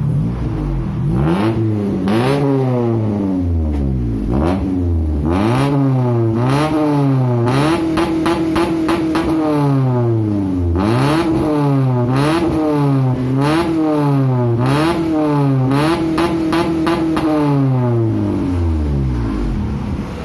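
Honda Civic Ferio four-cylinder engine breathing through an aftermarket full exhaust system (short header, resonator and M-01 muffler), revved again and again in quick blips from idle. Twice, about eight seconds in and again near sixteen seconds, the revs are held high for a couple of seconds before dropping back.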